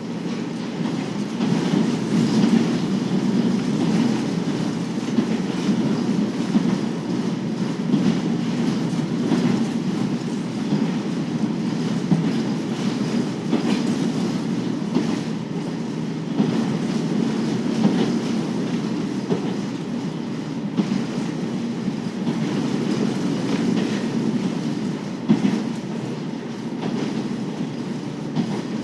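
Running sound of a KiHa 40 series (2000 subseries) diesel railcar under way: a steady low rumble of engine and wheels on the rails, with wheels clicking over rail joints now and then.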